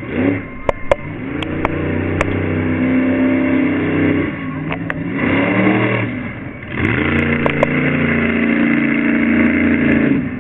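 Monster truck engine revving hard and held at high revs, easing off about four seconds in and climbing back up about seven seconds in, with scattered sharp knocks over it.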